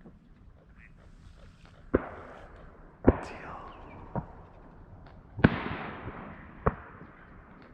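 Shotgun shots ringing out across the marsh: five sharp reports a second or so apart, the second and fourth loudest and trailing off in long echoes.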